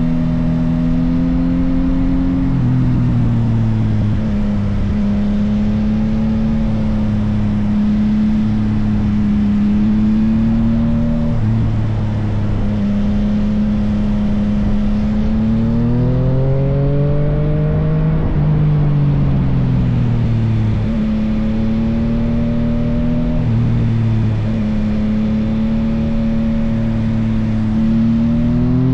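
Yamaha XSR900's inline-three engine through an M4 full aftermarket exhaust, running continuously under way. Its note holds steady, drops in pitch in steps several times, and rises then falls with the revs near the middle.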